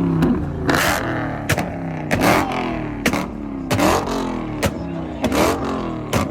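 Performance car engine revved hard over and over, with a sharp exhaust bang about every three-quarters of a second and the engine pitch dropping after each. The bangs are backfires, the kind that shoot flames from the exhaust.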